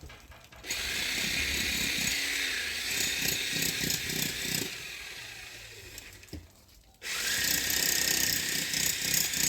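Power tool working into a building's wall, as when cutting channels for plumbing pipes. It starts about a second in, dies away over a few seconds, cuts off about seven seconds in, then starts again straight away.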